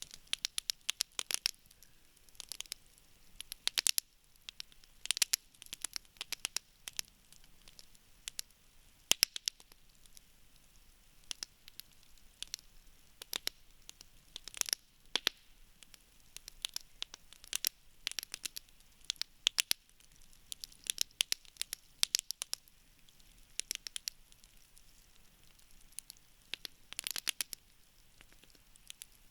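Wood campfire crackling: irregular sharp pops and snaps of burning wood, often several in quick succession.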